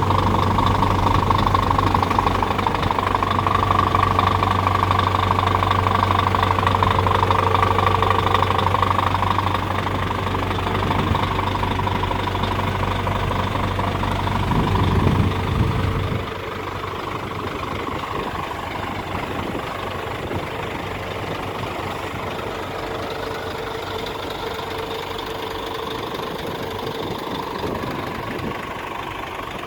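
Scania P410 truck's diesel engine idling steadily, with a short swell about fifteen seconds in, after which it sounds quieter.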